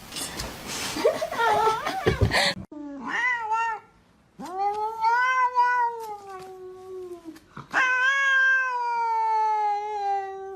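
A cat yowling: after a couple of seconds of mixed noise, one short call and then two long, drawn-out yowls of about three seconds each.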